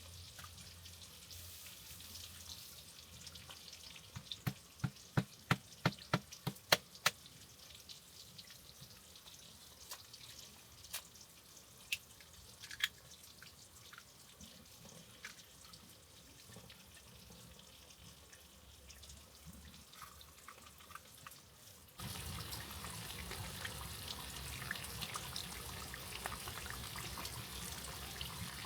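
Quiet outdoor ambience with a quick run of about a dozen sharp clicks or drips about four to seven seconds in, and a few scattered ones after. About 22 seconds in it switches abruptly to a steady louder rushing hiss, like running water.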